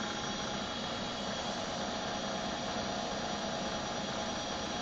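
Manual knee mill running steadily, a constant mechanical hum with a faint whine and no cutting strokes.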